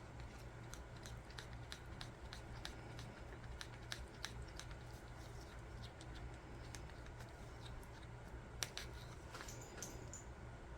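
Scattered light clicks and taps of small objects being handled at a work table, with a sharper click late on, over a steady low electrical hum.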